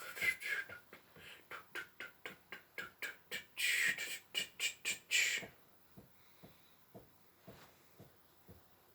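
Steam-train chugging made by mouth: a quick rhythmic run of 'chuff' puffs, about three a second, with one longer hiss partway through. It stops about five and a half seconds in, leaving only faint ticks.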